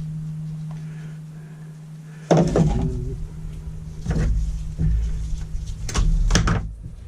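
Several knocks and clunks from strimmer parts and tools being handled, the first the loudest, over a steady low hum.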